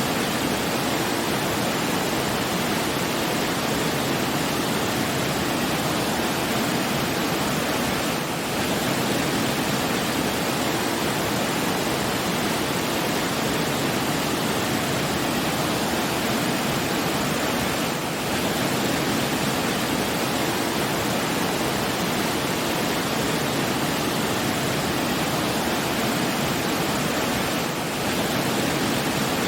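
Steady rushing water, an even full-range wash with no distinct events. It dips slightly for a moment about every ten seconds.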